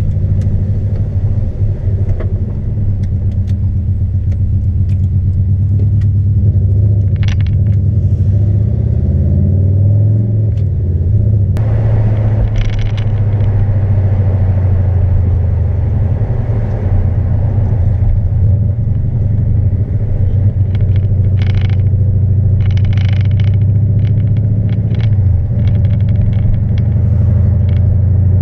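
Subaru engine's exhaust running super loud with a low drone while driving, its glass-pack muffler blown apart so it is basically a straight pipe. The note shifts in pitch about a third of the way through, then carries on steadily.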